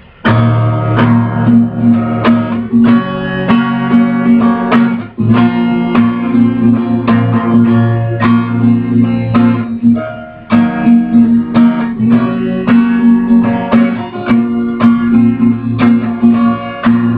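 Instrumental intro of a song cover: guitar chords strummed in a steady rhythm, breaking off briefly twice before starting again.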